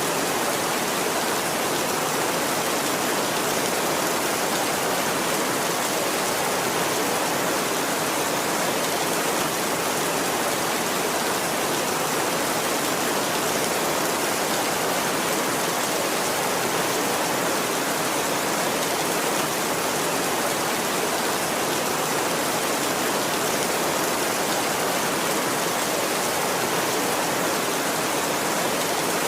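Heavy rain drumming steadily on a tin roof, an even hiss with no thunder.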